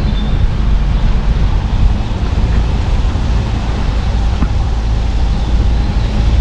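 A car driving on a mountain road: steady road and wind noise with a deep, constant rumble.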